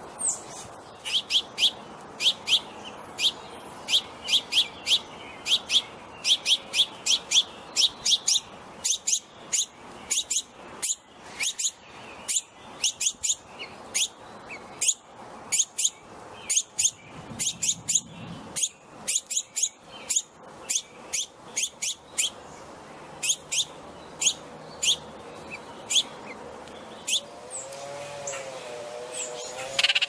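A small songbird chirping, sharp high notes repeated two or three times a second, thinning out later on. Near the end a lower, wavering tone joins in.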